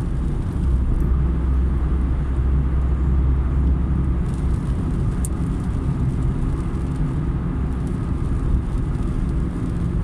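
A car driving steadily on a wet road: a constant low engine and road rumble with tyre hiss. A single brief click about five seconds in.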